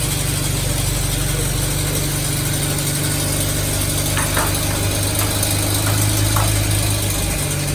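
BMW N54 twin-turbo straight-six engine idling steadily with freshly fitted exhaust gaskets that are not leaking. A few short clicks come between about four and six and a half seconds in.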